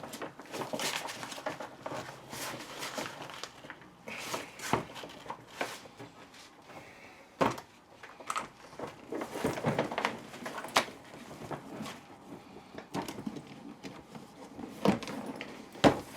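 Irregular clicks, knocks and scraping from a telescopic suitcase handle's plastic and metal parts being handled and worked at. The sharpest knocks come about halfway through and again right at the end.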